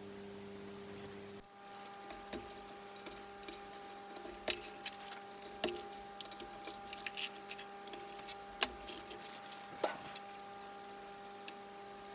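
Metal engine parts and hand tools being handled during the disassembly of a Honda CB450 engine: scattered sharp clicks and clinks, with a few louder knocks, over a steady hum.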